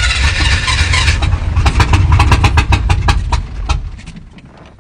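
Chevrolet C10 squarebody pickup engine catching on gas poured into the carburetor, running for about three and a half seconds, then dying out about four seconds in; it is close to starting but will not yet stay running.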